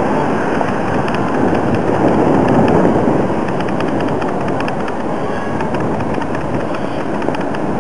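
Fireworks crackling: a rapid, irregular string of sharp pops over a continuous loud rumble.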